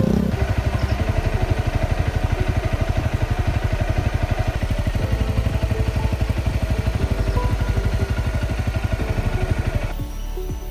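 Small motorcycle engine running with a rapid, even chug of about ten beats a second, labouring on a steep climb. About ten seconds in the sound changes and gets quieter.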